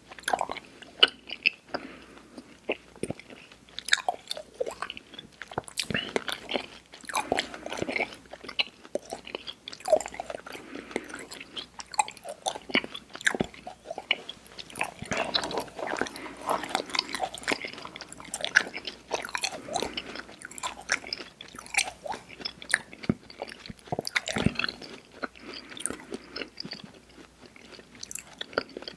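Close-miked mouth chewing of chewy Airheads sour candy: irregular wet smacks and sharp clicks with the odd bite.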